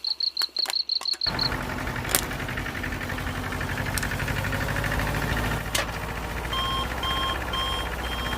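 Fast, high-pitched beeping, then a small motor starts running about a second in. A two-tone beep repeats over the motor near the end.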